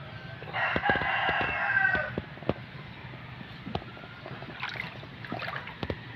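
A rooster crowing once, about half a second in, for roughly a second and a half, over a low steady outdoor background with scattered short clicks and knocks.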